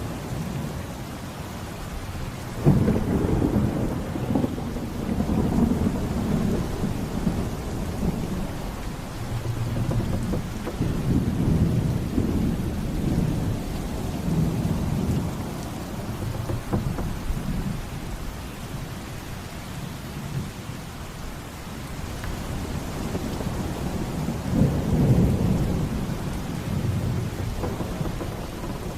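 Thunderstorm: steady heavy rain with thunder rolling low underneath, a sudden loud clap about three seconds in and another strong swell of thunder near the end.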